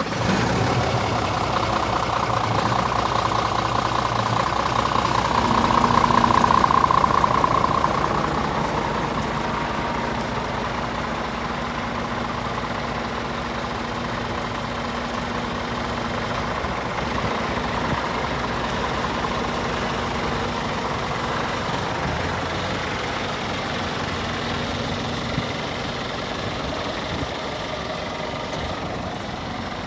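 Scania R450 refrigerated truck's diesel engine running steadily, growing a little louder about six to eight seconds in and then settling back.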